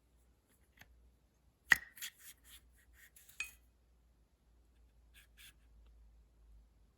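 Light metal clinks and taps as a piston pin is handled and fitted into a new bearing: one sharp click about a second and a half in, then a quick run of lighter clinks and two more a little later. The pin goes in with almost zero clearance, a close fit.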